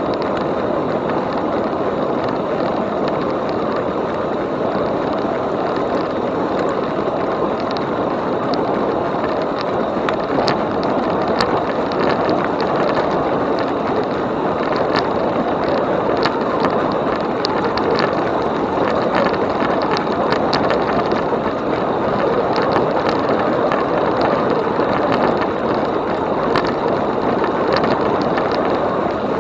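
Steady rolling noise and wind rush from a moving e-bike. Light clicks and rattles from the bike come in from about ten seconds in.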